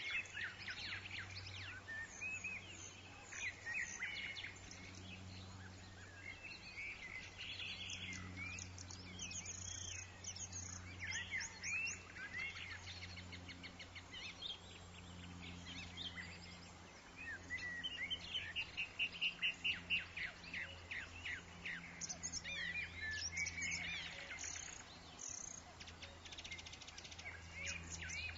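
Woodland birds chirping and calling, many short notes overlapping, with a rapid trill of evenly repeated notes about two-thirds of the way in. A faint steady low hum runs underneath.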